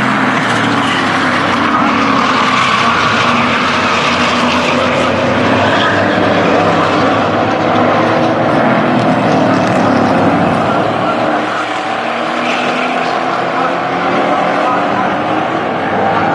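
Engines of a field of racing trucks running laps on a short oval track, several engine notes overlapping and rising and falling together.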